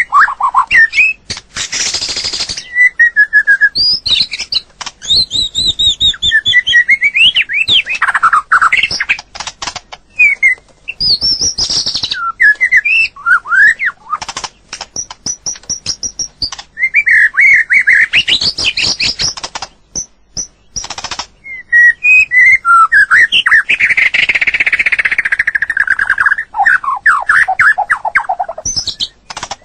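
White-rumped shama singing: a long run of loud, varied whistled phrases that rise and fall, mixed with sharp clicking notes and a rasping stretch near the end.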